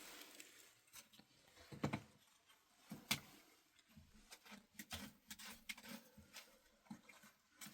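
Faint, scattered clicks and light knocks of small objects being handled, irregular, with a couple of louder knocks about two and three seconds in.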